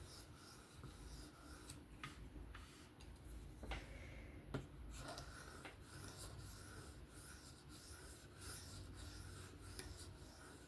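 Steel knife blade drawn in light strokes across a ceramic sharpening rod or stone to knock off the burr: faint, repeated scraping, with a few light clicks about two to five seconds in.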